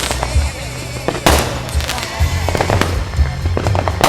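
Fireworks bursting: one loud report about a second in and a quick run of smaller pops near the end, with music playing underneath.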